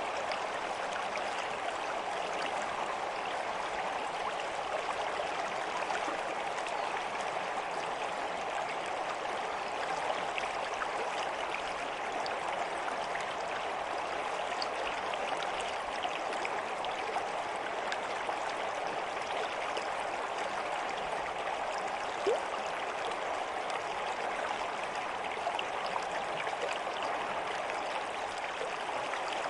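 Stream water flowing steadily, an even rush with faint trickling ticks, and one brief louder click about three quarters of the way through.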